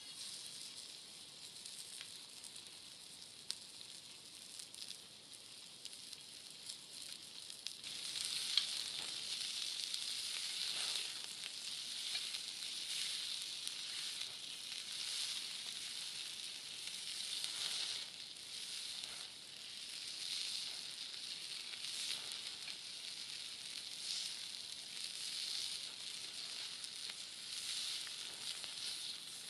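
Chicken sizzling as it cooks over a campfire, a steady frying hiss that swells and eases and gets louder about eight seconds in, with a few small crackles.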